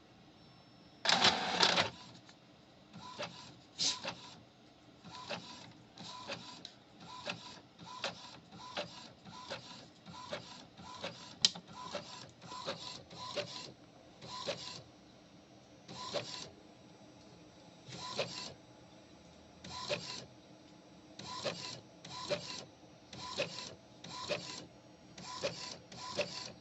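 Epson L3250 EcoTank inkjet printer printing: the print head carriage shuttles across in short repeated passes, each a brief whirr, at first a little faster than one a second and later spaced out to one every second or two. A louder, longer whirr comes about a second in.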